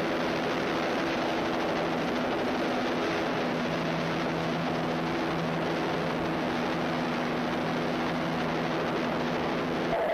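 Formula One car engines holding a steady, unchanging note over a wide rushing noise.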